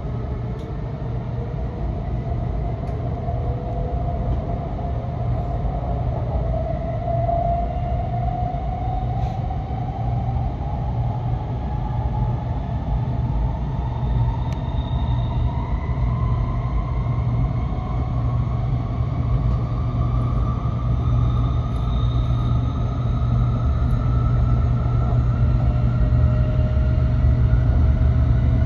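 Cabin sound of a Nishi-Kyushu Shinkansen Kamome train (N700S) running at speed: a steady low rumble of wheels on track, with a thin electric whine that rises slowly in pitch throughout as the train gathers speed.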